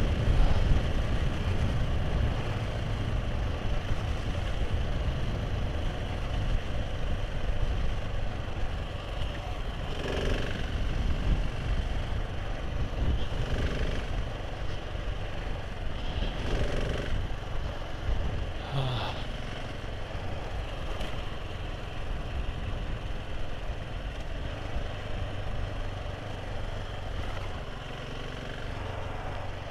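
Motorcycle running on the road, a steady low rumble, with a few short louder noises in the middle.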